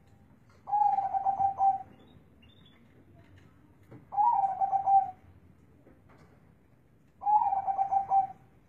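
Zebra dove (perkutut) cooing in a deep, bassy voice: three phrases about three seconds apart, each about a second long, opening on a short higher note and settling into a held, pulsing coo.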